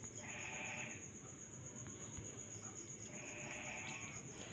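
Night insects after rain: a cricket's steady, high, finely pulsing trill, with a lower rasping call swelling for about a second at the start and again about three seconds in.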